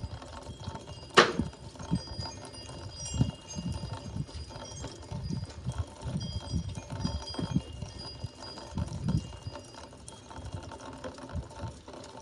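Wind chimes tinkling with scattered short high notes, over dull low thuds and a sharp knock about a second in.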